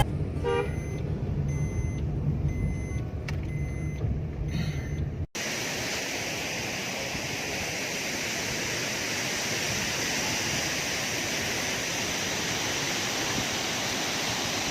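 A low rumble with faint steady tones for about five seconds, then, after an abrupt cut, the steady roar of a waterfall's falling water.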